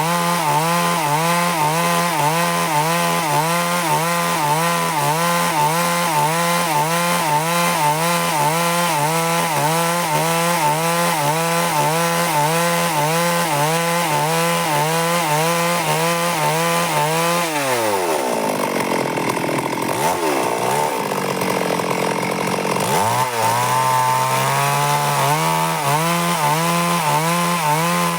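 Stihl MS382 two-stroke chainsaw running at full throttle through a rip cut along a log, its pitch wavering slightly under load. About seventeen seconds in, the revs drop to idle for roughly five seconds, then climb back to full speed.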